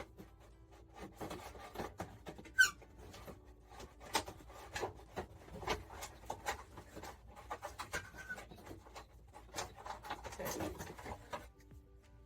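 Rubbing, scraping and light knocks of a flexible heater duct and plastic dash parts being handled and worked into place under a Suzuki Samurai's dashboard, with one sharp click about two and a half seconds in.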